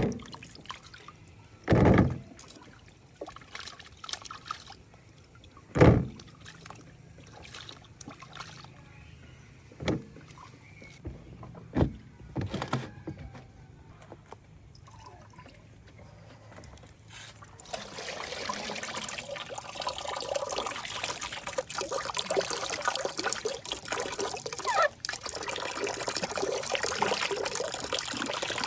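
A few sharp separate knocks, then, about two-thirds of the way in, water being poured with a steady splashing that continues to the end.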